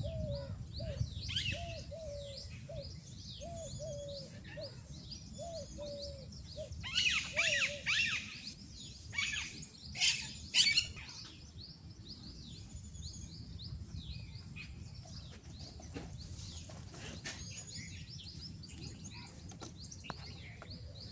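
Several birds chirping and singing together. A lower call repeats about every second for the first eight seconds, and there are louder bursts of chirping around seven and ten seconds in.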